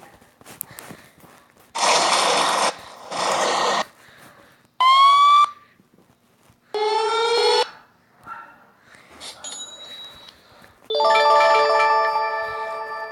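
A run of separate short sound effects, one after another. First come two hissing bursts of noise, then two tones that sweep upward in pitch. Near the end a steady ringing tone starts and holds.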